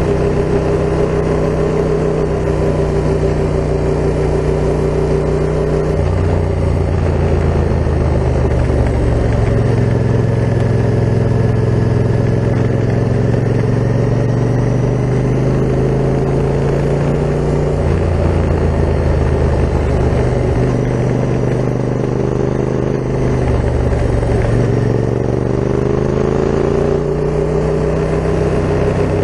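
Yamaha MT-07's 689 cc parallel-twin engine through an Akrapovic full carbon exhaust, running under way. The engine note steps in pitch about six seconds in and again about eighteen seconds in, then rises near the end as the throttle and gears change.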